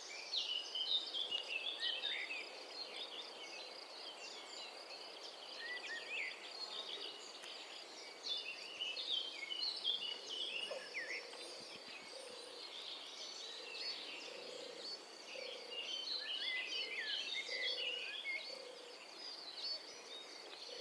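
Many small birds chirping and twittering at once, a busy mix of short quick notes, over a steady thin high-pitched tone. Soft low notes repeat about once a second in the second half.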